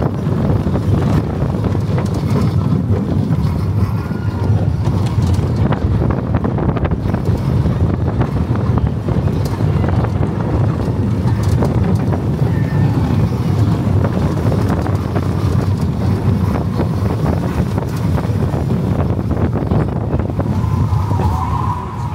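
Wind buffeting the microphone with the loud, steady rumble of the Slinky Dog Dash roller coaster train running along its steel track, rattling now and then; it eases off just before the end.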